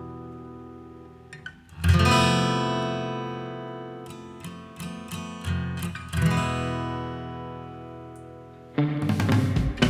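Background music: acoustic guitar chords strummed and left to ring out and fade slowly, with a few single picked notes between them, in a desert, Western mood. Near the end a busier, louder passage starts.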